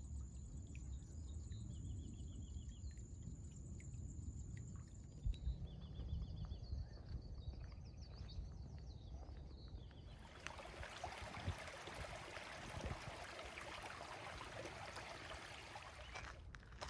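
Open-air wetland ambience: a low rumble with small birds chirping and trilling. About ten seconds in, the steady rush of flowing water from a stream or waterfall takes over, then cuts off suddenly near the end.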